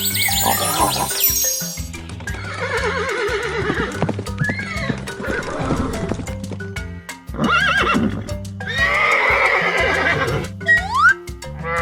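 Horse neighing, two long quivering whinnies, over background music with a steady beat.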